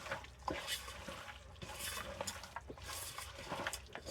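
Faint wet squelching and soft clicks of raw chicken pieces being mixed by hand with spice paste and oil.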